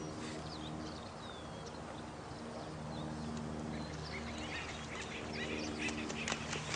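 Steady running water with birds chirping and calling over it, the calls growing busier in the second half. Low held tones come and go underneath.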